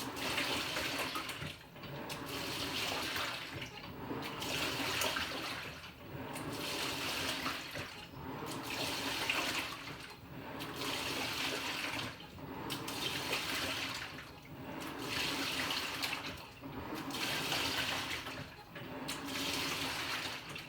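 Panasonic NA-FA100H9 top-loading washing machine agitating its load: water sloshing in surges about every two seconds as the pulsator turns back and forth, over a low motor hum. The agitation stops at the very end.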